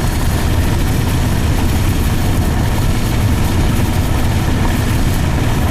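Steady low rumble of a car heard from inside the cabin, with an even hiss over it.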